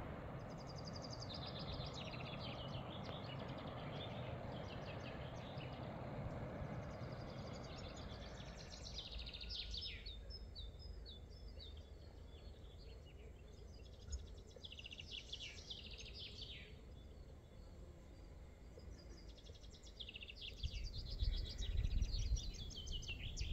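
Small birds singing outdoors, a string of short high chirping and trilling phrases repeated every few seconds. A faint steady background noise fades after about eight seconds, and a low rumble comes in near the end.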